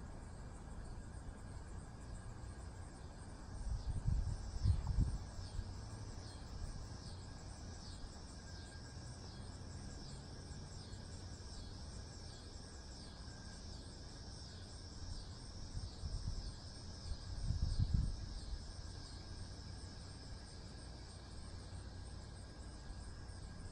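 Insect chirping in a steady high-pitched rhythm, about two chirps a second, with low rumbling thuds twice, about four seconds in and again near eighteen seconds.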